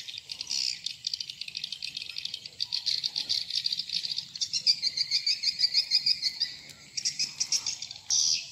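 Swiftlets twittering: a dense, continuous stream of rapid high chirps and clicks, busiest from about halfway through, easing briefly near the end before picking up again.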